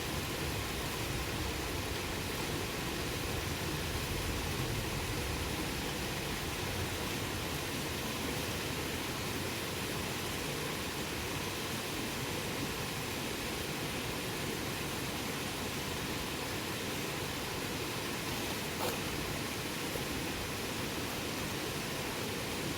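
Campfire burning with a steady hiss, and one faint pop from the burning wood about three-quarters of the way through.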